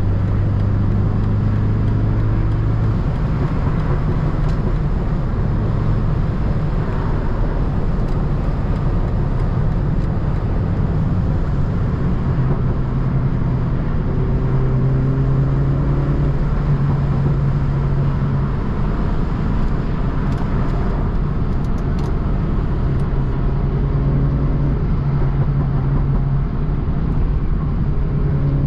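Tuned BMW 330i's turbocharged four-cylinder engine running at highway speed over steady road and tyre noise, its low drone shifting up and down in pitch a few times as the throttle changes.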